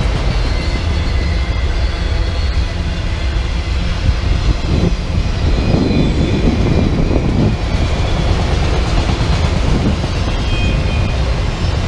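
Autorack freight cars rolling past close by: steady rumble and clatter of steel wheels on the rails, with faint high-pitched squeals now and then.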